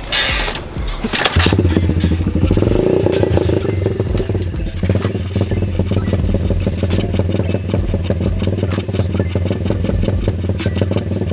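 Kick-started 125cc single-cylinder four-stroke dirt bike engine: one or two sharp knocks from the kick, then it catches about a second and a half in, revs up and back down briefly, and settles into a steady idle.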